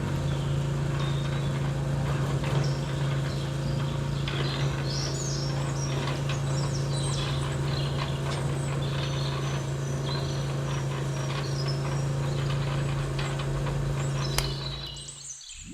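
A small motor running with a steady, even hum while birds chirp over it, with scattered light clicks and rattles. The hum fades away near the end.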